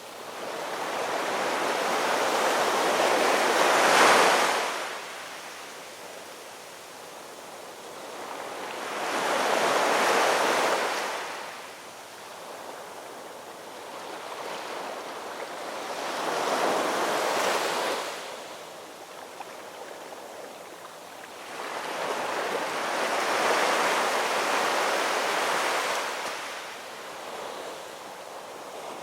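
Ocean waves: surf swelling and fading in slow surges, four in all, about every six to seven seconds, the first the loudest.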